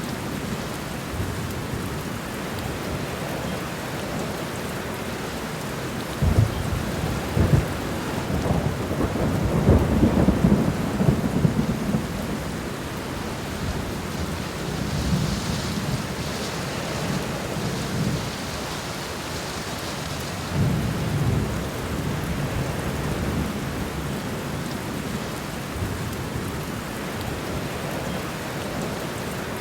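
Steady rain falling on a garden floor, an even hiss. Heavy low thumps and rumbles swell up from about six to twelve seconds in, and again briefly past two-thirds of the way through.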